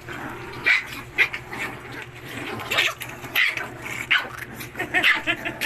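A puppy yapping in short, sharp bursts, about seven times, over a steady low hum.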